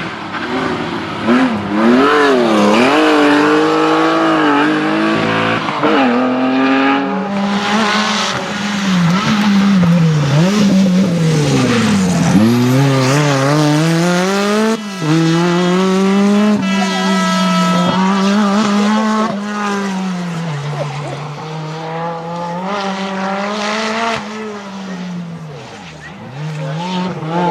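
Rally car engines revving hard, the pitch climbing and dropping over and over with gear changes and lifts off the throttle.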